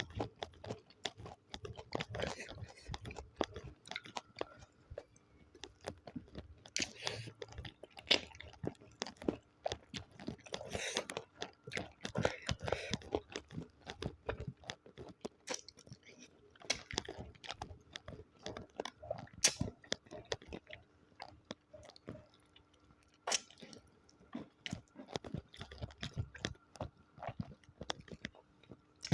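Close-miked eating: a person biting, chewing and crunching food, with wet mouth sounds and irregular crackling crunches.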